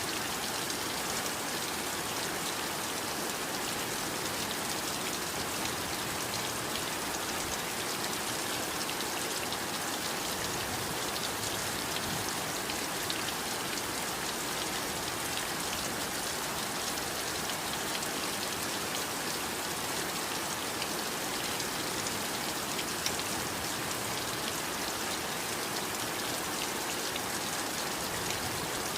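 Steady heavy rain falling, a dense even hiss dotted with countless small drop impacts.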